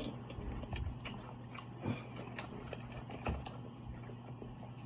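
Close-up chewing and biting of seafood, with several sharp clicks and crunches about a second apart, over a steady low hum.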